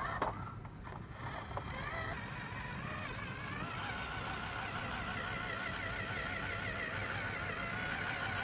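Electric motor of an RC car whining, climbing in pitch about two seconds in and then holding a steady, slightly wavering note over a low rumble.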